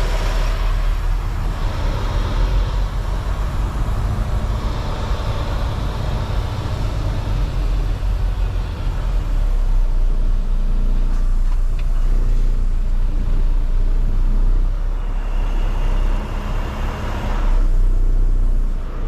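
Semi-truck's diesel engine running steadily with a low hum, heard from inside the cab.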